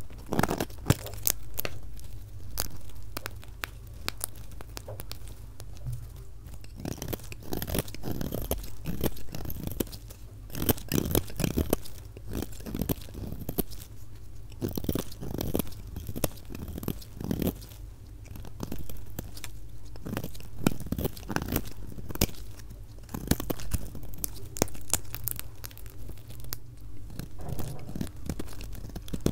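A knife cutting through a bar of soap: a rapid, irregular run of short, sharp cuts and scrapes, played at double speed.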